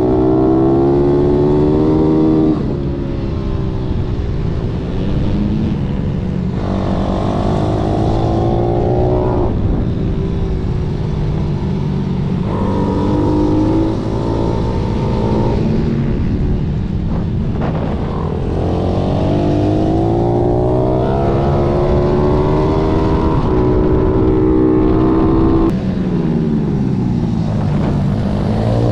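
Pitbike's single-cylinder four-stroke engine on track, climbing in pitch under hard acceleration and falling off sharply when the throttle is closed for braking, several times in a row, then picking up again near the end.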